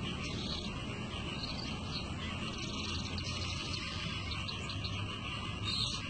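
A caged long-tailed shrike (pentet) giving a few short, faint high chirps spaced out over several seconds, over a steady low background rumble.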